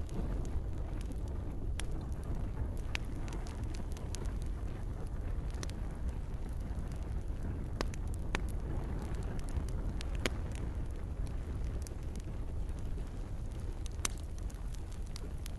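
Campfire crackling, with sharp pops at irregular intervals over a steady low rumble of burning, mixed with the soft hiss of rain.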